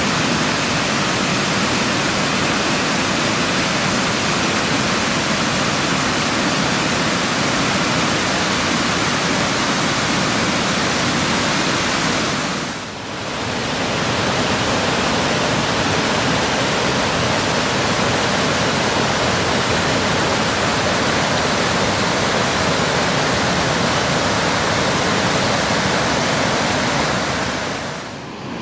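Waterfall: a steady, full rush of falling water. It fades briefly about halfway through and comes back at the same level.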